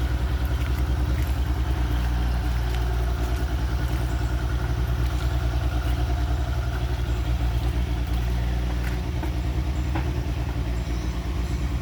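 Engine running at a steady idle, a low even throb close to the microphone.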